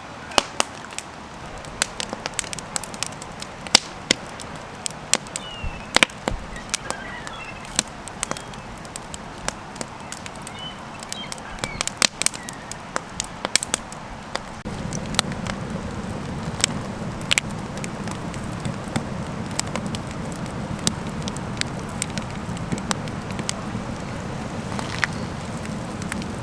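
Campfire crackling and popping, with sharp irregular snaps throughout. A low steady rumble comes in about halfway.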